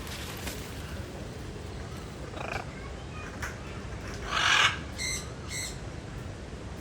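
Birds calling: a short call about two and a half seconds in, a loud harsh call a little after four seconds, then two short, higher calls in quick succession.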